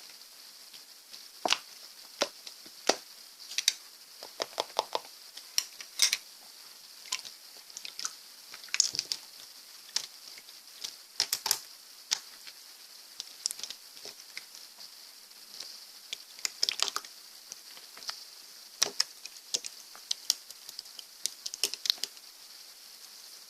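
Slime being squeezed and played with by hand, giving irregular sharp clicks and pops, sometimes in quick clusters, over a steady background hiss.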